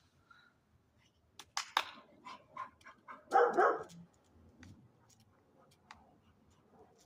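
A dog gives one short bark about three and a half seconds in, among scattered light clicks.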